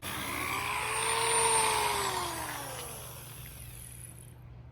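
A motor whine under a steady hiss, starting suddenly, rising a little in pitch for about a second, then falling in pitch and fading away over the next two seconds.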